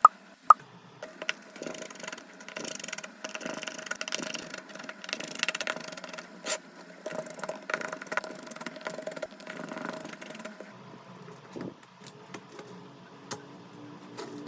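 Small hand tools scraping, rubbing and clicking against a smartphone's body in irregular strokes for about ten seconds, then only faint scattered clicks. Two sharp clicks open it.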